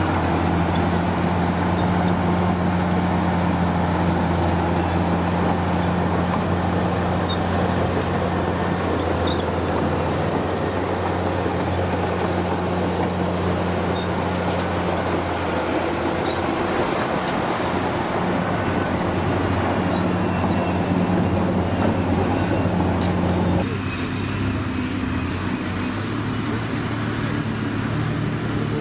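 Heavy vehicle engine running steadily with a low, even note. The sound changes abruptly about three-quarters of the way through.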